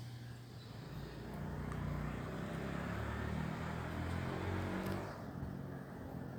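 A motor vehicle passing: a low engine rumble and a rush of noise that swell about a second in and fall away near the end.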